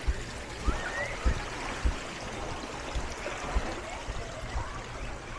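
Water washing and rushing on the shore, with regular low thumps at walking pace, about one every half second or so.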